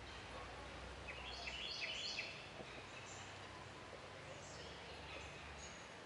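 Songbird chirping over a steady outdoor hiss: a quick run of four or five bright, high chirps about a second in, then a few scattered single chirps.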